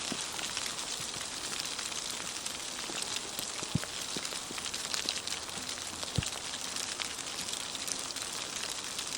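Sleet falling steadily, a dense hiss of tiny ticking pellets, with a couple of soft low thumps.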